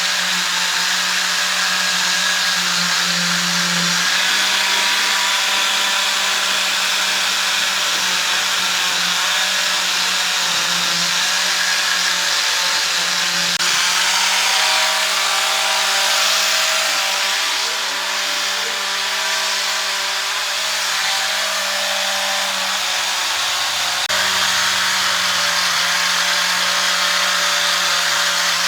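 Electric power tool running steadily on wood, with a constant hum under a noisy, grinding edge. It eases off slightly for a few seconds about two-thirds of the way through.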